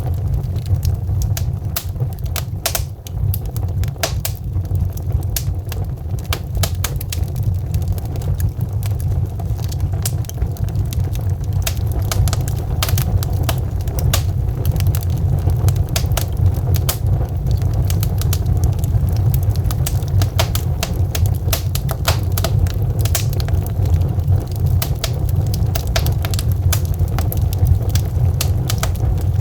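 Wood fire of burning logs crackling and popping, with many sharp irregular snaps over a steady low rumble.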